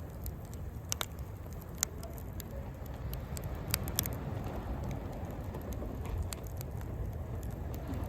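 Wood fire crackling in a Coleman Fire Disk fire pit, with a few sharp pops over a steady low rumble.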